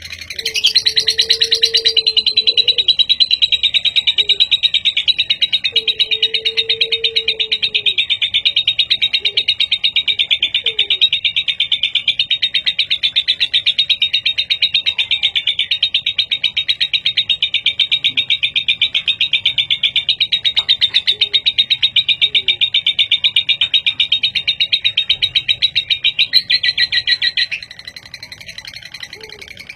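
A lovebird's long 'ngekek' trill: a rapid, high-pitched chattering run of calls held without a break for nearly half a minute, stopping abruptly near the end.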